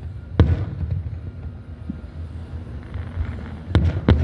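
Fireworks shells bursting overhead: one sharp bang about half a second in, then two more close together near the end, over a steady low rumble with wind on the microphone.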